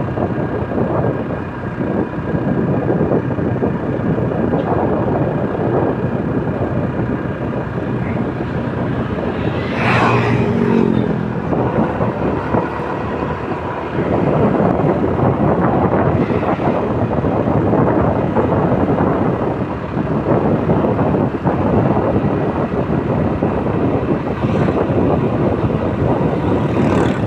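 Motorcycle riding along the road: the engine running under a steady rush of wind on the microphone, with the engine note coming through more clearly for a moment about ten seconds in.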